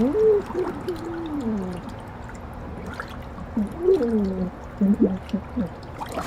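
A man's voice muffled and gurgling as he vocalizes with his face under water, making pitched, gliding hoots that mostly fall in pitch, in two groups: one at the start and another about four seconds in.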